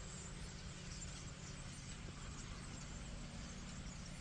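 Faint chatter of a large flock of birds calling together, many short chirps overlapping, over a steady low rumble.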